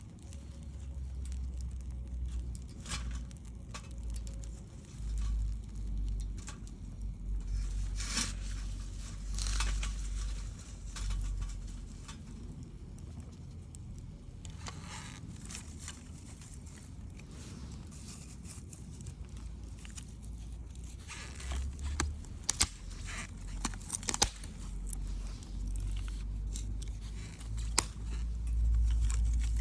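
Wood fire crackling, with scattered sharp pops; the loudest cluster comes a little over two-thirds of the way in, over a low rumble.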